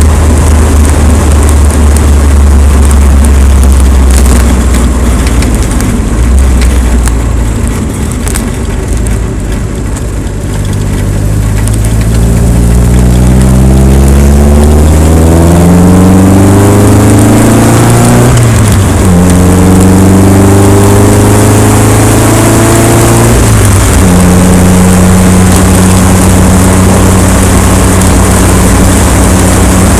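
A vehicle engine pulls away through the gears, under loud, steady rushing wind noise. Its note climbs, drops suddenly about 18 seconds in as it shifts up, climbs again, then shifts once more and settles to a steady cruise.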